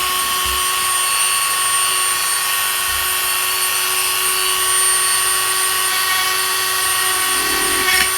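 Dremel rotary tool with a small bit running at a steady high speed, its whine unchanging, as it grinds away the plastic rivets that weld a laptop keyboard to its palm rest.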